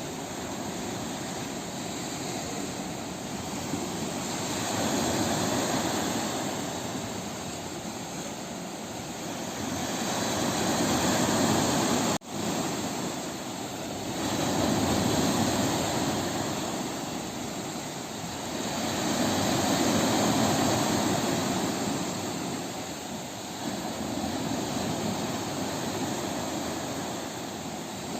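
Waves breaking on a beach: a rushing surf that swells and fades about every five seconds. It briefly cuts out once, near the middle.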